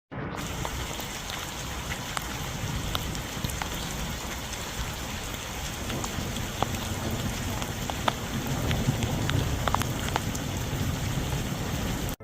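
Steady rain falling: an even hiss with scattered sharp taps of individual drops, over a low rumble.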